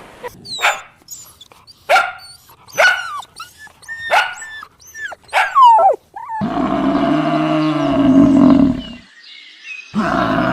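A dog barking in about five sharp, high yips with falling pitch. These are followed by a long, wavering animal call of about three seconds that breaks off, and another such call starting near the end.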